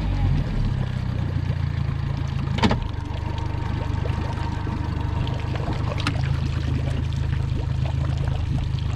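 Boat's outboard motor running steadily at idle, just after starting. One sharp knock about a third of the way in and a lighter one about two-thirds in.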